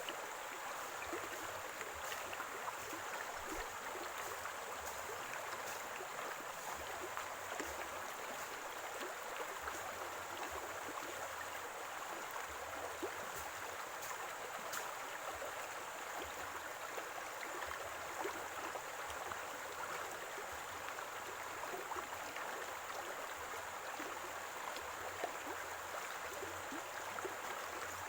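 Running water in a small stream or spring, gurgling and splashing steadily.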